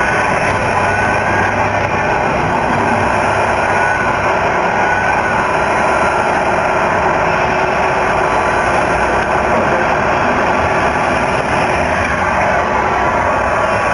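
Tamiya 1:14 Scania R470 RC truck's MFC-01 sound unit playing its simulated diesel truck engine sound through a small speaker, running steadily with slight rises and falls in pitch.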